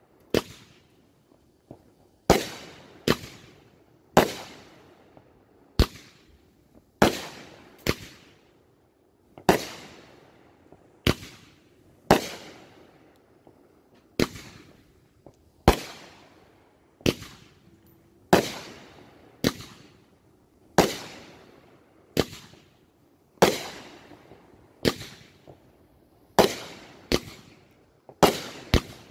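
Aerial fireworks going off in a steady series of sharp bangs, about one a second with some coming close in pairs, each one ringing out in a short echo.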